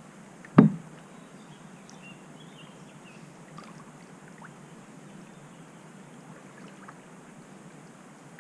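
Steady rush of river water around a kayak on the move. A single sharp knock comes just over half a second in, followed by a few faint small ticks.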